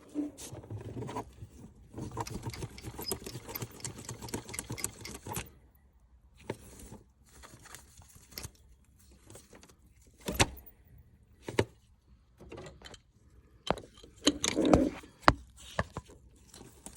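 Opel Zafira B OPC's Z20LEH engine bay, with a dense, fast mechanical rattle for about five seconds, then scattered single knocks and clicks. The noise comes from the alternator's freewheel pulley, which is going bad.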